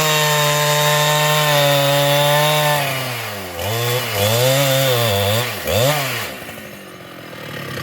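Two-stroke Husqvarna chainsaw running at high, steady speed. About three seconds in it drops and is revved back up several times, then falls back toward idle near the end.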